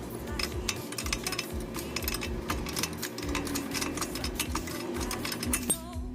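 Hand tools clinking and tapping on metal car suspension parts: many quick metallic clicks over a low steady hum, dropping out briefly near the end.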